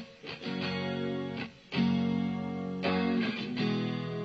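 Rock song's instrumental passage between sung lines: guitar chords ringing, changing about every one to two seconds, with short breaks between them.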